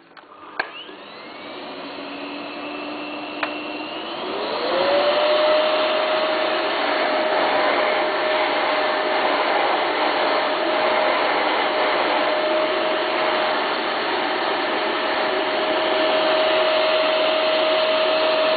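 Electrolux ZUA 3830P Ultra Active 2100-watt bagless vacuum cleaner switched on with a click, its motor spinning up to a low-speed whine. After another click about three and a half seconds in, the motor winds up to a higher pitch and runs steadily with a loud rush of air, starting to wind down at the very end.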